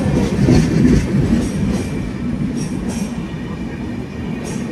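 Mumbai–Pune Intercity Express coaches rolling slowly past: a steady rumble of wheels on rail with a light clack every second or so, the slow pace of a train creeping through on a restrictive signal.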